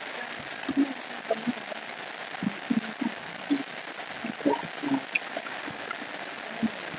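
Close-up eating sounds: irregular chewing and lip smacks, with a few light clicks from a plastic fork in a small sour-cream cup, over a steady background hiss.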